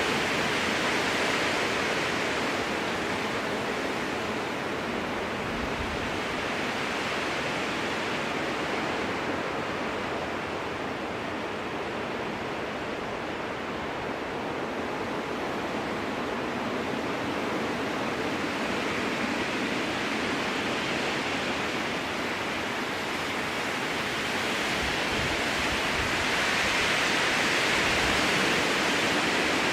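Strong wind rushing through spruce trees, a steady hiss that eases off in the middle and swells again in gusts near the start and end. A few brief low thuds, like wind buffeting the microphone.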